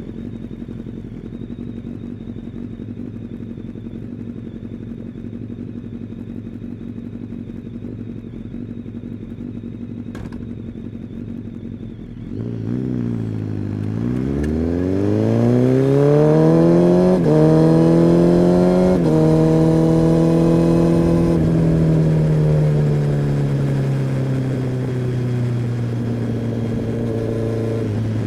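Kawasaki ZX-10R inline-four engine and exhaust running steadily, then about twelve seconds in accelerating hard with a rising pitch, with two quick gear changes a few seconds later. It then settles and slowly drops in pitch as the rider eases off.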